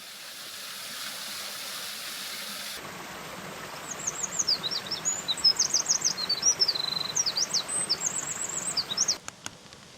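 Steady rush of a mountain stream. About three seconds in the sound changes abruptly, and a songbird sings a quick run of high chirps, trills and short whistles over the water until a cut near the end.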